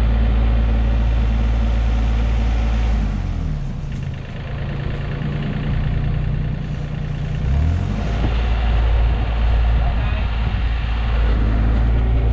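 Diesel engine running, its speed rising about three seconds in, held higher for several seconds, then dropping back near eight seconds.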